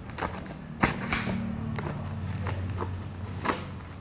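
A cardboard shipping box being opened by hand: tearing, scraping and crinkling of the packaging, with a series of sharp clicks and snaps.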